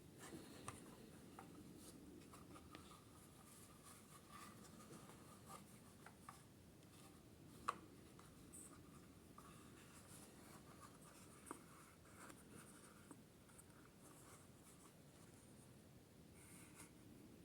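Faint scratching and rubbing in a small room, with scattered light clicks and one sharper click about eight seconds in.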